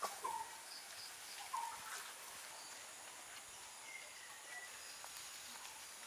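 A few short bird calls over faint outdoor ambience: two calls in the first second and a half, and a thin high whistle about four seconds in.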